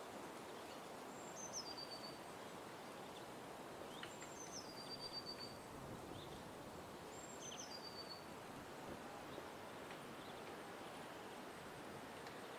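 A small bird giving a high, thin whistled call that steps down in pitch, three times about three seconds apart, over a steady background hiss of outdoor noise.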